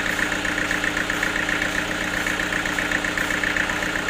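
Sawmill machinery running steadily: a constant engine-like hum that holds the same pitch, with no sign of a cut.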